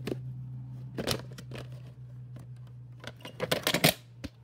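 Plastic VHS case being handled and opened, with a few sharp clicks about a second in and a quick run of louder clicks and rattles near the end, over a steady low hum.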